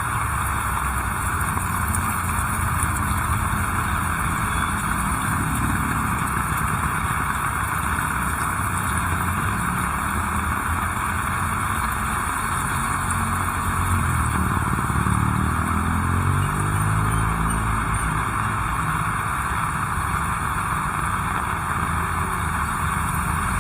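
Steady heavy rain, with a motor vehicle's engine passing close by; its engine note climbs in pitch a little past the middle.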